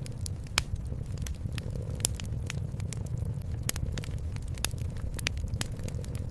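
Wood fire crackling in a fireplace: irregular sharp pops and snaps, the loudest about half a second and two seconds in, over a steady low rumble.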